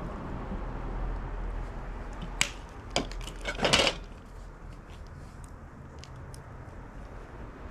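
A few sharp knocks or cracks, one about two and a half seconds in, another about three seconds in and a short cluster near four seconds, over a low steady rumble.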